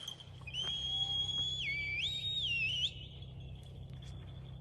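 A whistled recall call, as used to bring a hawk back to the glove. It is one held note that steps down, back up and down again, lasting about two and a half seconds. A faint steady high insect trill sounds behind it.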